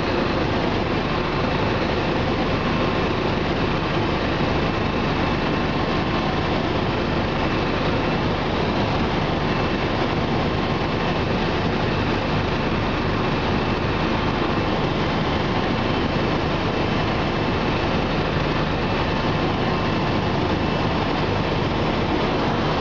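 Cabin noise of a Bell 429 twin-turbine helicopter in flight: an even, unchanging rush of rotor and engine noise with a few faint steady tones in it.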